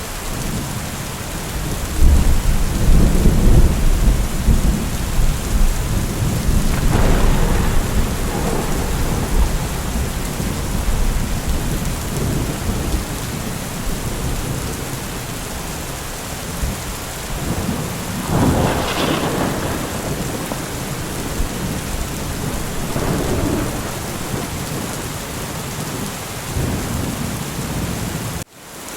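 Steady rain with rolling thunder: a deep rumble comes in about two seconds in and fades over several seconds, with fainter rolls later. The sound drops out for an instant near the end.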